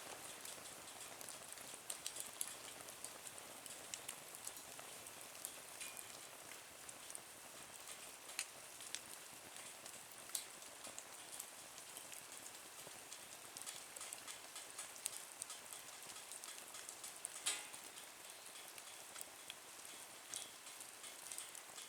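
Wood fire burning in a small nature stove (twig stove), crackling faintly with scattered sharp pops over a soft hiss; one pop late on is louder than the rest.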